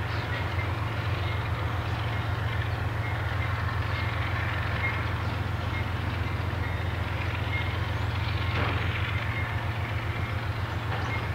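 Empty autorack freight cars rolling past on the rails: a steady rumble of steel wheels with a fast, fluttering clatter. A faint high whine comes and goes, and there is a single clank about three-quarters of the way through.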